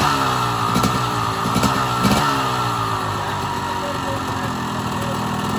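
Motorcycle engine revved, its pitch falling away over the first two seconds with a couple of small throttle blips, then running steadily.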